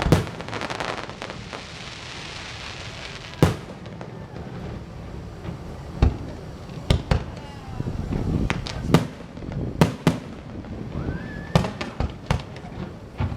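Fireworks going off: sharp bangs at irregular intervals, more than a dozen, with a dense crackling fizz over the first few seconds.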